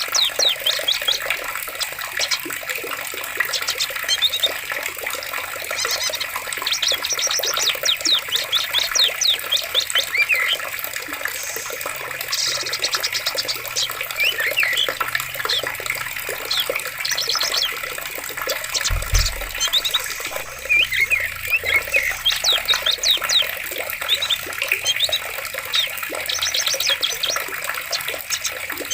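Forest ambience of steadily running water with many birds calling and chirping over it in quick trills and chips. A brief low thump sounds about nineteen seconds in.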